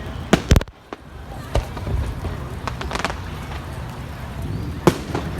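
Fireworks going off: a handful of sharp bangs, two close together at the start, more at about one and a half and three seconds in, and another loud one near the end.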